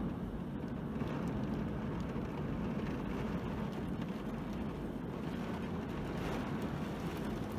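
Steady low rumble of a car driving, with no changes in pace.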